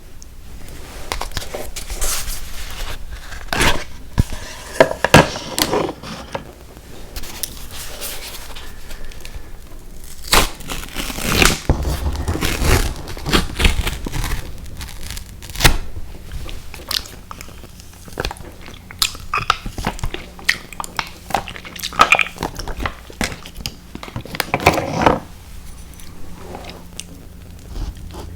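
Close-miked eating of sour gummy worms cereal: irregular biting, chewing and crunching with crackles, and some crinkling, in clusters that come and go.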